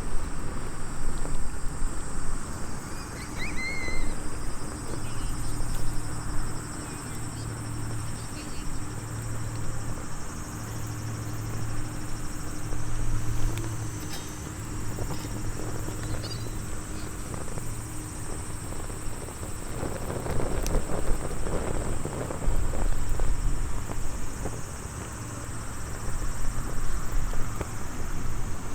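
A small wood fire crackling now and then over surf that swells and ebbs on the shore. Insects chirp steadily throughout.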